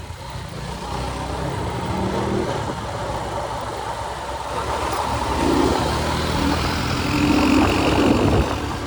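Motorcycle engine running under way, with wind noise over the microphone; it gets louder about five seconds in and again near the end.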